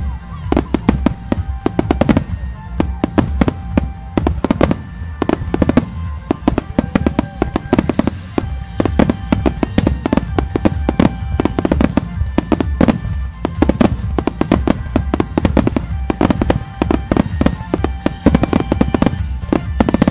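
Aerial fireworks bursting in a rapid, continuous volley, many bangs a second, over music.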